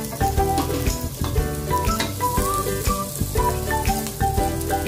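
Chopped onions and garlic sizzling in a non-stick pot as a spatula stirs them, under background music with a steady beat and a repeating melody.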